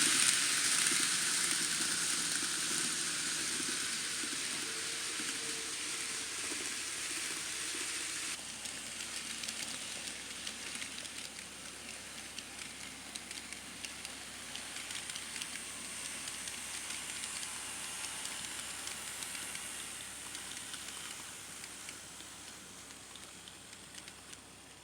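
N scale model Shinkansen train running on its track: a steady rolling hiss of wheels and motor that slowly fades as it moves away, with faint ticks later on.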